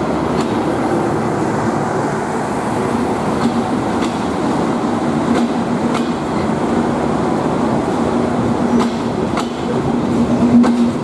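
Passenger train running along the track: a steady rumble with a low hum and sharp clicks every second or two as the wheels cross rail joints.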